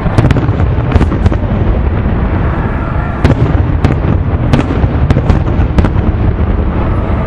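Aerial fireworks display: a continuous low rumble of shells bursting, with many sharp bangs and cracks scattered throughout.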